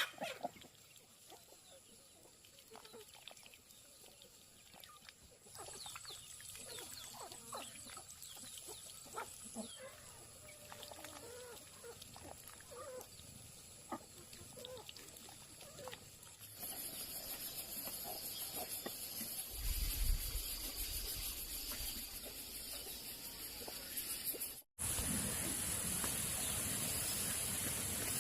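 Farm animals calling in short, scattered calls over outdoor background noise, with the sound changing abruptly at several cuts. From a little past halfway, a steady high hiss runs underneath.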